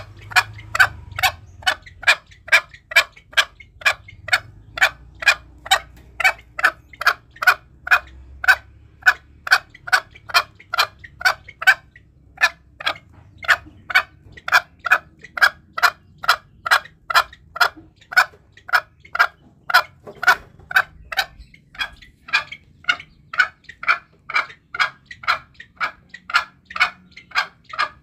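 Green junglefowl lure call: short clucking calls repeated evenly, about twice a second, without a break.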